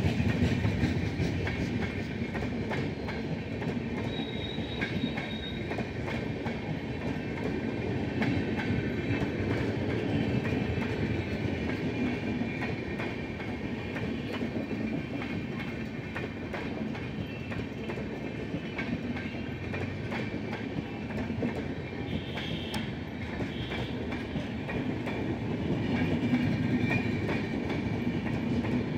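Express passenger train's coaches running past on the track: a steady rumble of wheels on rail with rapid clickety-clack over the rail joints. A brief high squeal sounds about four seconds in.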